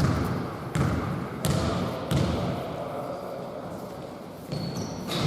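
Basketball being dribbled on an indoor court, echoing in the hall: four bounces about 0.7 s apart, a pause, then more bounces near the end.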